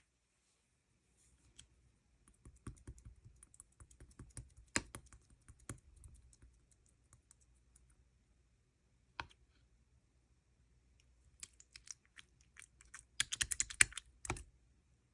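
Irregular light clicks and taps, sparse at first, with a dense burst of fast clicking and crinkly rattling near the end.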